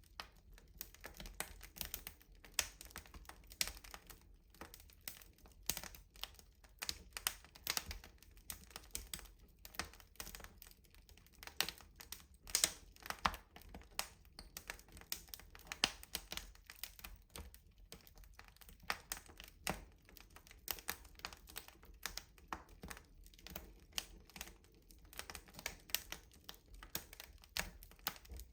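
Wood fire crackling in a rustic stove: dense, irregular sharp pops and snaps of burning wood.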